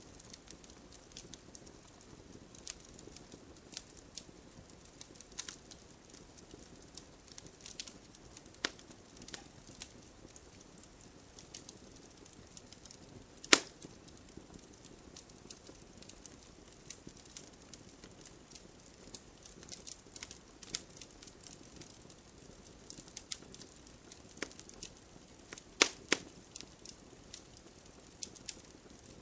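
Bonfire crackling: irregular sharp pops and snaps of burning wood, the loudest about halfway through and a close pair near the end, over a steady soft hiss of gentle rain.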